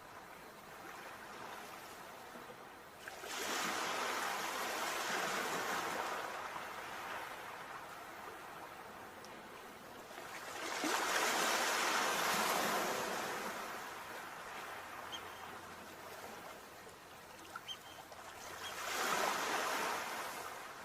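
Sea waves breaking: three swells of surf about eight seconds apart, each rising and then falling back to a quieter wash in between.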